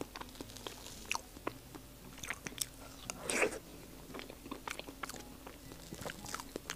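Close-miked mouth sounds of someone eating soft matcha-yuzu mille crepe cake: soft chewing with many small wet clicks and lip smacks. There is one louder, longer noisy sound a little after three seconds in.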